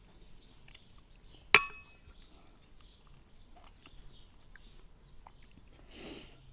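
Tableware clinking while eating noodle soup: one sharp ringing clink of utensil against bowl about a second and a half in, with small clicks and taps of eating around it and a short breathy noise near the end.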